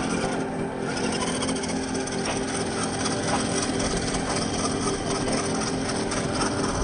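Reely Free Men RC crawler's electric motor and gear drive whining steadily as it crawls, with scraping and rubbing from the tyres and chassis over rough ground.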